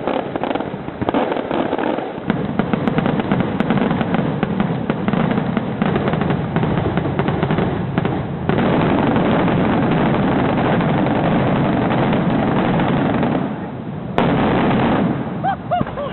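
Fireworks display: a dense, continuous barrage of rapid bangs and crackling, getting louder from about halfway and dipping briefly near the end before resuming.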